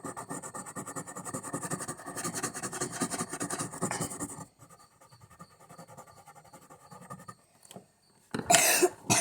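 Coloured pencil scribbling fast back and forth on cardboard, shading an area in rapid strokes, then going on more lightly. Its point is wearing down. A short, louder burst of scraping noise comes near the end.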